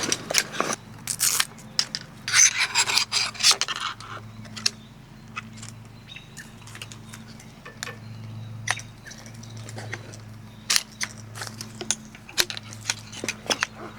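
Scattered clicks and scraping as objects are handled and rubbed, over a steady low hum.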